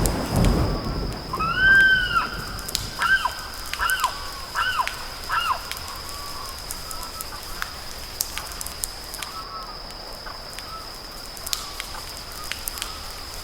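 A bird giving a series of short, arched, whistled calls, about six over four seconds, with fainter calls later, over a steady high thin tone and faint scattered clicks. A low rumble fades out at the start.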